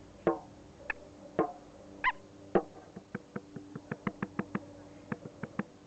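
A drum played by hand in a loose, irregular rhythm. Separate strikes ring with a low note, then a quicker run of lighter taps follows in the second half.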